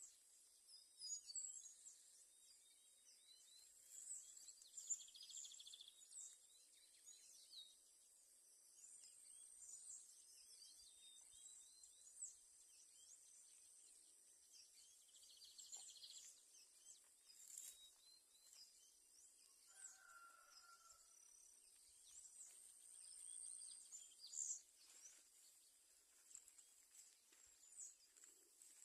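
Faint chorus of wild birds calling and chirping, short high chirps and trills scattered throughout, over a steady high-pitched hum. A lower, fuller call stands out about twenty seconds in.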